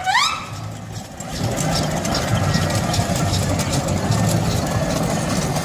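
Engine running steadily, with a short rising glide in pitch right at the start.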